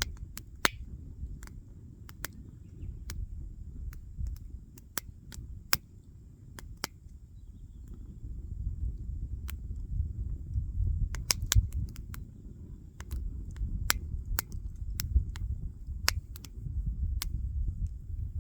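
Wood fire burning: irregular sharp crackles and pops of burning wood, several a second at times, over a steady low rumble.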